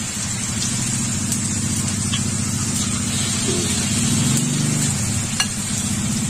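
Food sizzling as it fries in oil in a large wok, with a few faint ticks, over a steady low motor-like hum.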